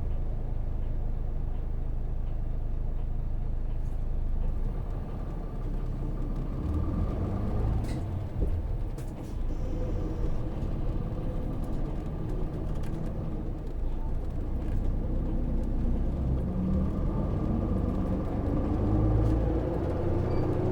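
Cabin running sound of a Hino PJ-KV234L1 city bus with a 6HK1 diesel engine: steady engine and road rumble. In the last few seconds the engine note climbs as the bus accelerates.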